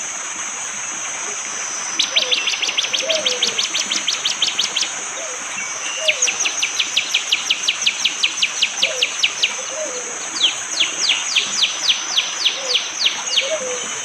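Prenjak jali, a prinia, giving its rapid 'shooting' call: three bursts of sharp, evenly repeated down-slurred notes, about ten a second, the third burst slower. A steady high hiss runs underneath.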